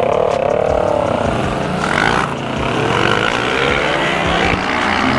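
Motorcycle engine pulling away under acceleration, its pitch climbing and dropping back as it shifts up through the gears, with wind rushing over the microphone.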